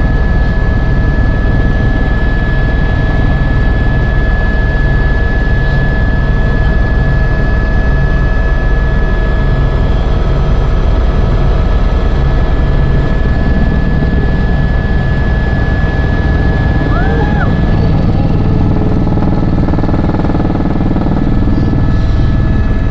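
Helicopter running steadily: a constant loud rotor and engine drone with a steady high turbine whine over it.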